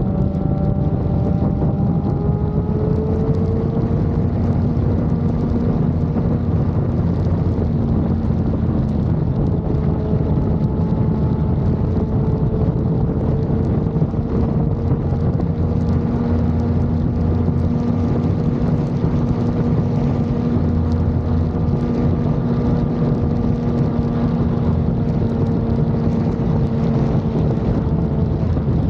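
Motorcycle engine running steadily at cruising speed, its note climbing slightly a couple of times and then holding, with wind rushing over the helmet-mounted camera's microphone.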